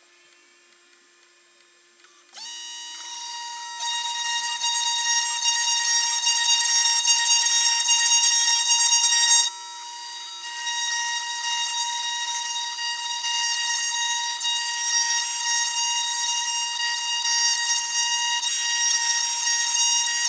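Desktop CNC 3018 Pro router spinning up about two seconds in, then its spindle and bit cutting into wood with a steady high whine and a rough cutting hiss. The cutting noise drops for about a second around the middle, then resumes.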